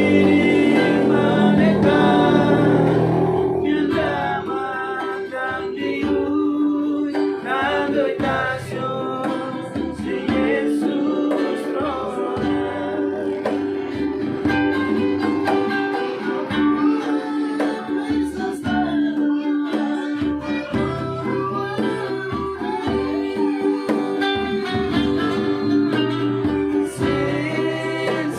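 Acoustic song: singing over strummed guitar, the voices strongest in the first few seconds, then the guitar carrying on with held chords.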